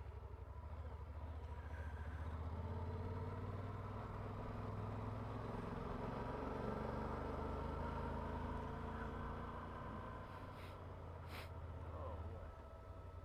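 Motorcycle engine running at low speed with a steady low pulse, growing louder for a while and then easing off shortly before the end. Two short clicks sound near the end.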